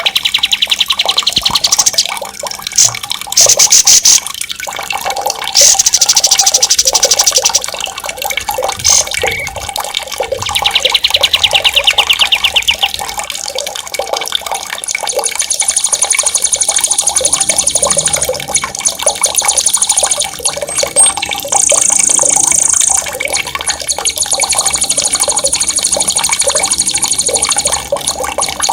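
Songbirds singing loud, sharp, rapid rolling trills in repeated phrases of one to three seconds, with longer, higher trills in the second half, over a steady background of running water.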